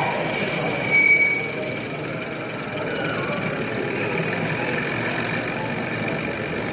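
Exhibition hall background of indistinct crowd chatter and running model trains, with a thin steady whine. A short, louder high tone sounds once about a second in.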